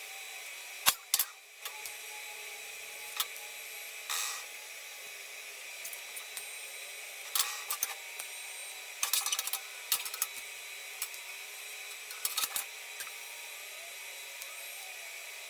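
Steady high-pitched electrical hum, with scattered sharp clicks and short taps of tools and metal parts being handled.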